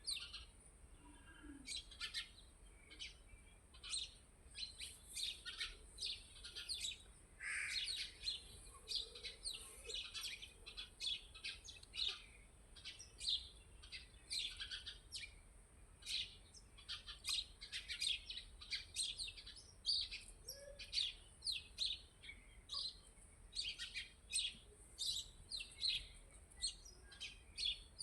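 Birds chirping: a continuous run of short, quick chirps and tweets, with a faint steady high hiss underneath.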